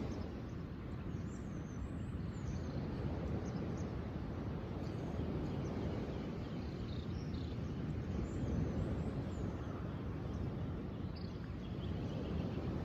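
Surf and wind make a steady low rush, with small birds chirping faintly and high-pitched over it.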